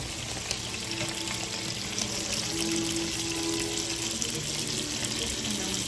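Kitchen tap running steadily into a sink, an even hiss, with music playing in the background.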